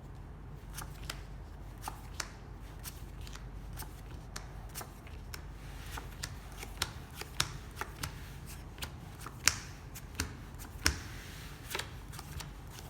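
Playing cards being handled and dealt out: a string of irregular sharp card snaps and clicks, with a few louder ones in the second half.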